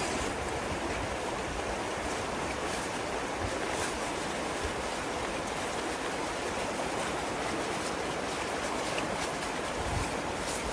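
River water flowing, an even steady rushing sound.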